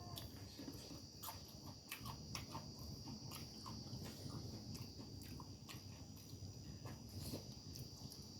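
Close-up eating sounds: chewing and crunching food, with irregular sharp crackles and mouth clicks. A steady high-pitched whine runs behind.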